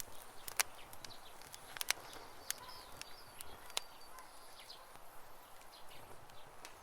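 Campfire crackling, with sharp irregular pops (the loudest about half a second and two seconds in), while wild birds chirp briefly.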